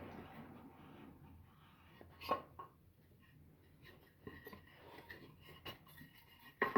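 Light handling clatter of wooden pieces being knocked and slid about, with two sharper knocks: one about two seconds in and one near the end. A machine noise fades out during the first second.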